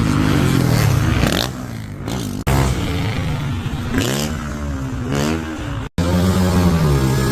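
Dirt bike engine revving, its pitch rising and falling repeatedly. The sound breaks off abruptly twice, about two and a half seconds in and again near six seconds with a brief drop-out.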